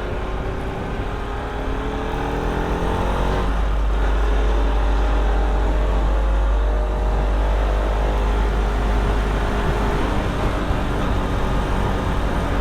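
Motorcycle engine under way with its revs climbing, a break about three and a half seconds in, then a slow climb, over heavy wind rumble on the microphone.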